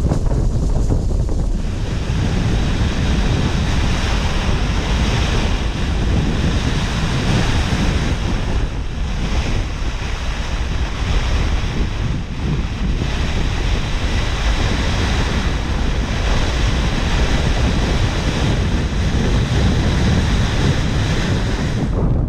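Storm-force wind buffeting the tent: a loud, steady roar that swells and eases a little with the gusts, with heavy low wind rumble on the microphone.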